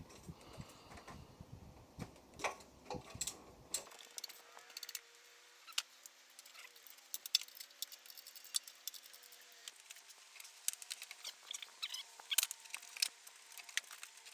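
Scattered metallic clicks, taps and rattles of hand tools and bolts during engine-removal work. The low background rumble drops away abruptly about four seconds in.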